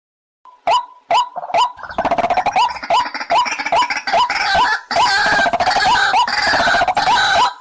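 White-breasted waterhen calling: after a brief silence, a run of short hooked notes, about three a second, that from about two seconds in becomes a dense, harsh chorus of overlapping calls.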